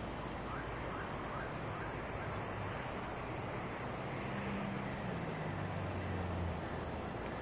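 Car engine running at low revs under a steady outdoor hiss, its low hum shifting in pitch about halfway through, with a few faint short chirps early on.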